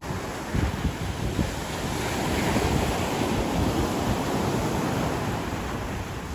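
Ocean surf breaking and washing up the beach, a steady rushing that swells about two seconds in and eases near the end, with wind buffeting the microphone.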